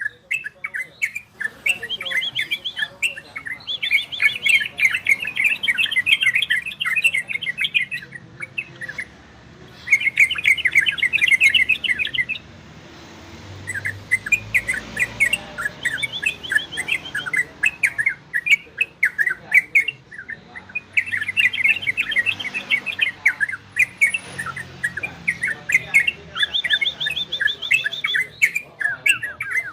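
Yellow-vented bulbul (trucukan) singing in the rapid 'ropel' style: fast chattering trills in repeated bursts of one to three seconds, with brief pauses between them.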